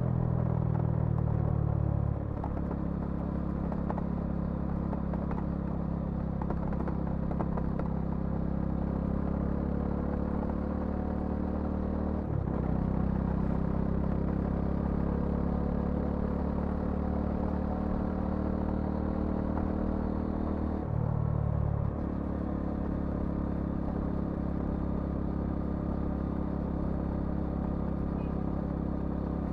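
Bajaj Dominar 400's single-cylinder engine and exhaust running steadily under way. The note shifts about two seconds in and breaks briefly about twelve and twenty-one seconds in.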